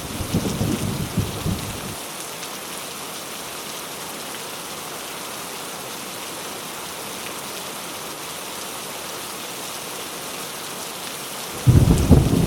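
Heavy rain falling steadily with a thunderstorm. A low rumble of thunder dies away about two seconds in, leaving only the hiss of the rain, and a loud rumble of thunder breaks in suddenly near the end.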